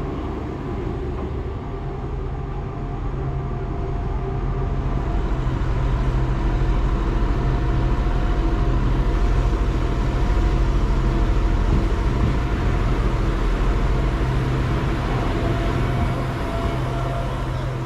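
Modern regional train running, heard from inside: a steady low rumble and hum with faint whining tones. It grows louder about five seconds in and eases slightly near the end.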